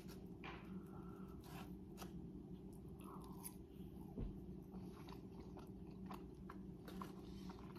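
Faint chewing and mouth sounds of a person eating with a fork, with scattered small clicks and a soft knock about four seconds in, over a steady low hum.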